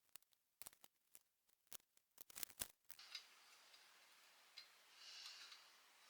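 A quick, uneven run of faint sharp metallic clicks from small parts and tools being handled in the oil pump rebuild, stopping about three seconds in. A faint steady hiss follows.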